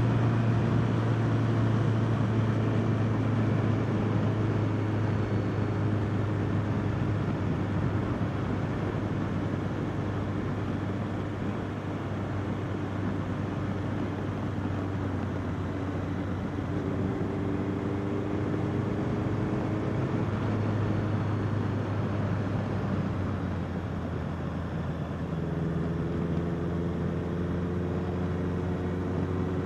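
Honda CBR650R's inline-four engine running at steady cruising revs while riding, over a steady rush of wind. The engine note shifts a couple of times, about two-thirds of the way through and again near the end.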